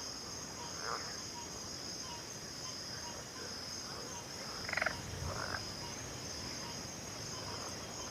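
Chorus of frogs and insects: a steady high insect trill with a faint regular ticking, and frogs croaking now and then, the loudest croak about five seconds in.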